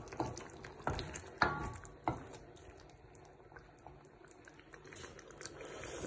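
A metal spoon clinks against a cooking pot three or four times in the first two seconds as spices are stirred in. After that only a faint, steady background remains.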